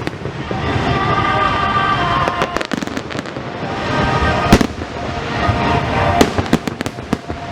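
Fireworks bursting: a few sharp bangs, the loudest a little past halfway and another about a second and a half later.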